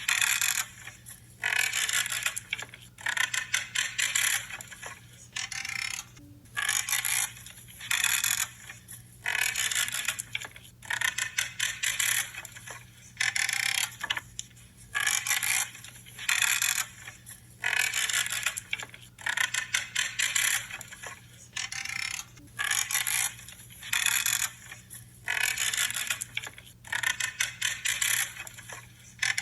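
Branches being cut with pruning shears, one crackling, creaking crunch after another, roughly one cut every second or so.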